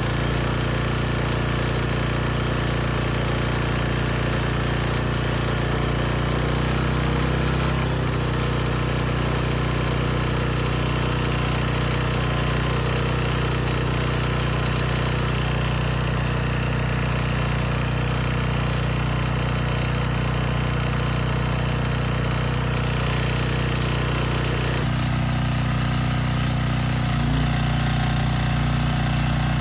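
Rebuilt 10 hp Briggs and Stratton single-cylinder generator engine running steadily on a test run, its note shifting slightly about seven seconds in and again near the end. A knock can be heard in the running, which the owner takes for a fault inside the engine and not the rattle of loose cooling tins.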